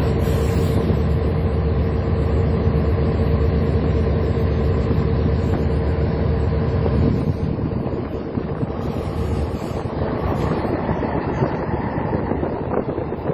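Fishing boat's engine running steadily, a low drone with a constant hum; the low drone eases off about seven seconds in.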